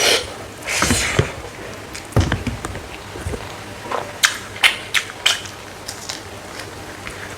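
Close-up mouth sounds of chewing and crunching dried smoked frog: irregular wet chewing with several sharp crunches, clustered about four to five seconds in.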